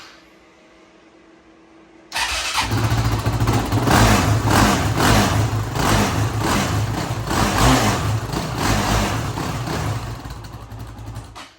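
Honda TRX450R quad's single-cylinder four-stroke engine starts abruptly about two seconds in and runs loudly with a pulsing, uneven beat, being blipped. It is running again after a starter clutch and starter gear replacement.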